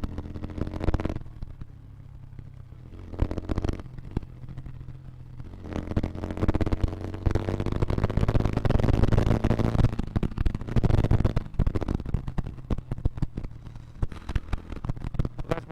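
Motorcycle engine running under way. It fades for several seconds after the first second, then comes back louder from about six seconds in, rising in pitch as it accelerates.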